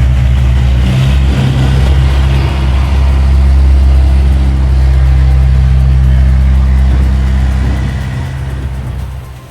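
Steady diesel tractor engine sound, running loud at a constant pitch, then fading out near the end.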